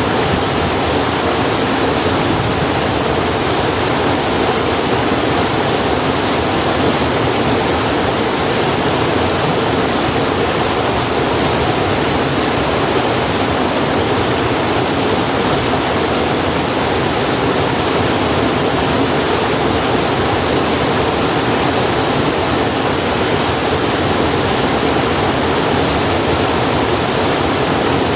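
Steady, even rushing noise like running water, with no crackle or pop standing out.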